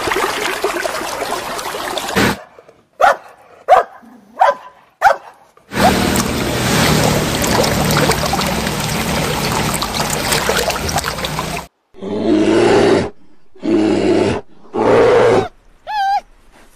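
A run of separate animal sounds cut one after another. First come a few short sharp calls. Then a long, loud, rough call lasts about six seconds, followed by three shorter calls near the end.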